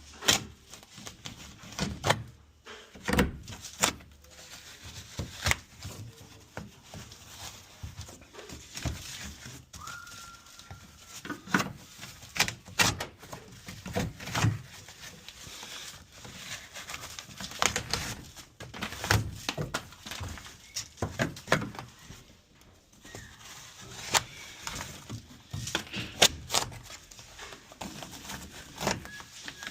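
Irregular knocks, clunks and scrapes of hands-on work in a small room, with a short steady squeak about ten seconds in.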